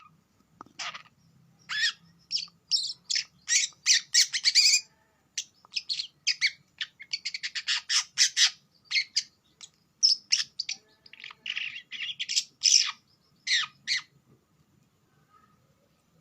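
Long-tailed shrikes calling: quick runs of short, harsh chirps and squawks that stop about two seconds before the end.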